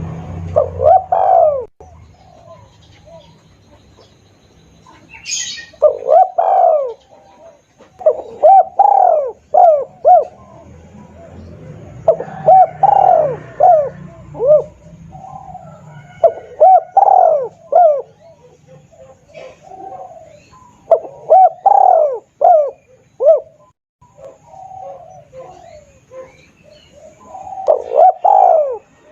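Spotted dove (tekukur) lure call: repeated phrases of several rolling coo notes, about seven phrases, each a few seconds apart.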